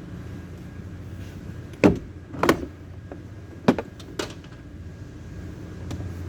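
Four sharp clacks in two pairs, each pair about half a second apart, from hands and tools working on a car door's parts, over a steady low hum.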